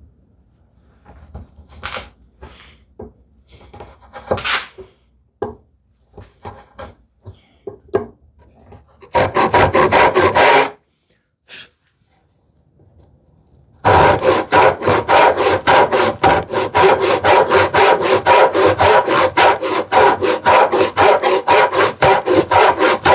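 Hand saw cutting into wood with fast, even back-and-forth strokes, about five a second, starting with a brief run of strokes about nine seconds in and settling into steady sawing from about fourteen seconds. Before that come scattered light knocks and scrapes of the workpiece and tools being handled.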